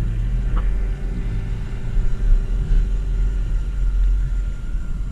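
Supercharged Sea-Doo jet ski engine idling with a steady low rumble.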